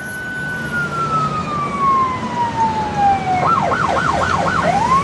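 Police car siren: a long wail that slowly falls in pitch, switches to a fast yelp of about four quick warbles, then rises back into the wail near the end, over a low vehicle rumble.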